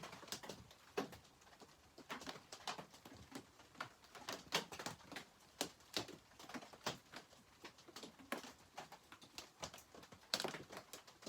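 Irregular light taps and clicks, about one or two a second, over a faint steady hiss.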